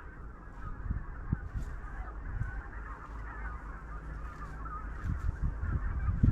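A flock of backyard chickens clucking and calling together without pause, over a low rumble.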